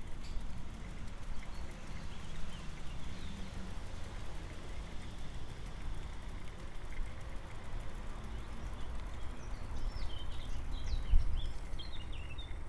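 Steady low rumble of a bicycle ride, with small birds chirping, briefly a few seconds in and more busily near the end, and one brief bump about eleven seconds in.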